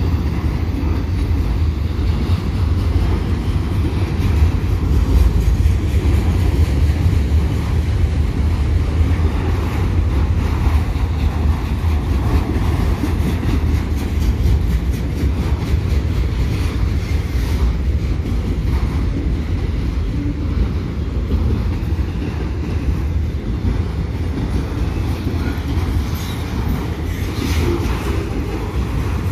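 Freight train of autorack cars rolling past close by: a steady rumble of steel wheels on the rails, with scattered clicks as the wheels pass over rail joints.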